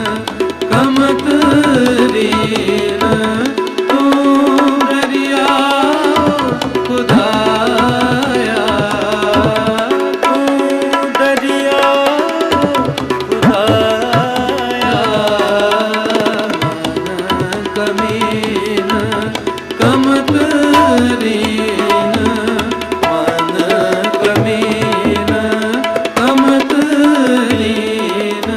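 Raag kirtan music in Raag Malhar. Tabla plays under a gliding melodic line, with no sung words.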